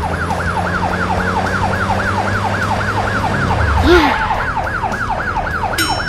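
Cartoon police-car siren wailing up and down in a fast, even cycle, about three sweeps a second, with a low engine hum under it that fades out about halfway through and a brief swooping sound about four seconds in.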